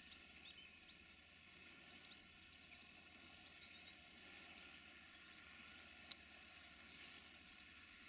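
Faint birdsong over quiet, steady background noise, with a single sharp click about six seconds in.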